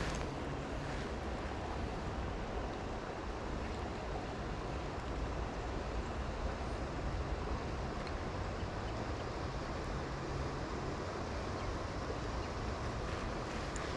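Steady rushing noise of flowing creek water, even and unbroken.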